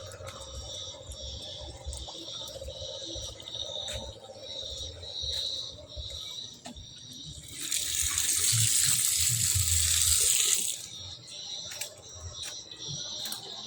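Rain falling, with scattered drips and splashes of water. Nearly eight seconds in, a loud rushing hiss of water swells for about three seconds, then drops back to the steady patter.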